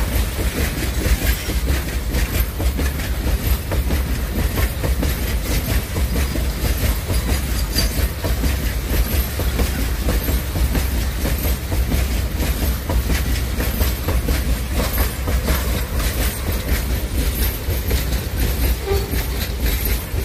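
Coal train gondola wagons rolling past, their steel wheels clacking over the rail joints with many rapid clicks over a continuous low rumble.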